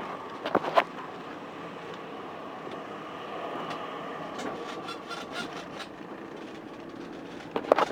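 A tram running past: a steady rail rumble with a faint humming tone, and short sharp clicks just under a second in and again near the end.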